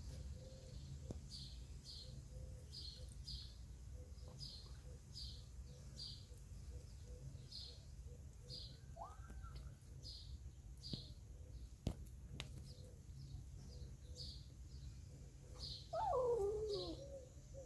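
A small bird chirping over and over, short high chirps about two a second, and near the end a kitten meowing loudly with a wavering pitch.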